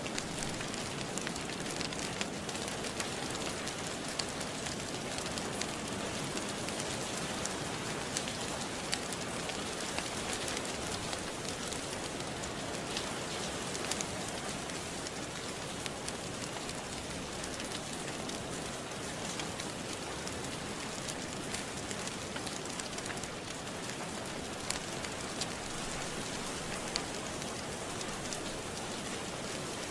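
Steady, even rain, with the sharp pops of a crackling wood fire now and then.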